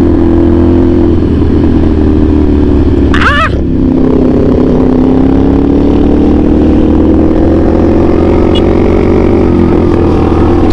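CFMOTO 450SR S parallel-twin engine through an AR aftermarket exhaust, running under way. The engine note drops briefly about three and a half seconds in, then climbs slowly as the bike accelerates, with a short higher sound just before the drop.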